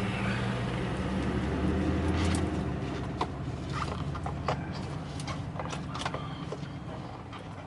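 A motor vehicle engine running with a low steady hum that swells for the first couple of seconds and then eases off, with light clicks and taps from tools or parts being handled.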